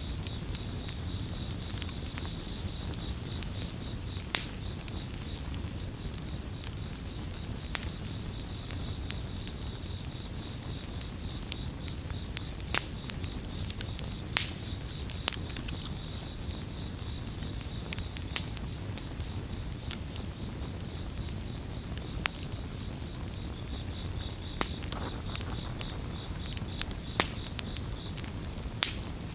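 Campfire crackling, with many scattered sharp pops over a low steady rumble. Crickets chirp throughout in a fast, even, high pulsing trill, which fades for a while in the middle.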